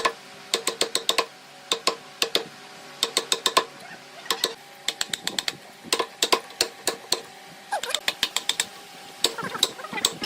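Sharp knocks of a hand tool striking wood, coming in quick runs of four to six strikes with short pauses between, over a faint steady hum.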